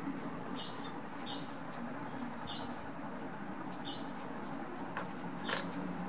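A small bird chirping: short single rising chirps, about one a second, over a faint steady hiss. A brief rustle or tap about five and a half seconds in.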